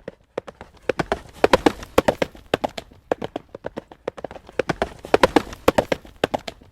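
Horse's hooves clip-clopping at a trot on a hard road surface, in a quick, even rhythm of sharp knocks. The hoofbeats swell louder twice.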